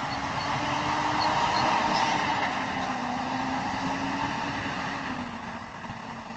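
Truck engine running with a steady drone, dropping off slightly near the end.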